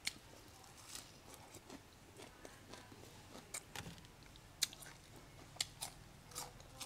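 A person chewing and crunching fresh lettuce and raw vegetables, in scattered short, faint crunches and mouth clicks.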